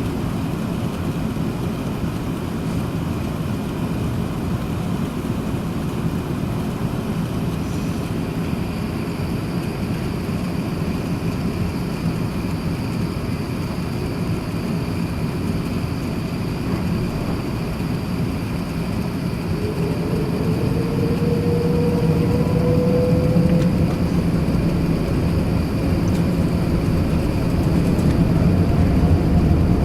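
Airbus A380-861 cabin noise: its Engine Alliance GP7200 turbofans are heard through the fuselage as a steady low rumble and hiss. About two-thirds of the way in, a rising whine comes in and the noise grows louder as the engines spool up, with a further rise near the end.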